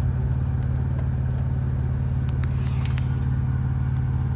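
Truck engine running with a steady low hum, with a few light clicks and a brief hiss a little past the middle.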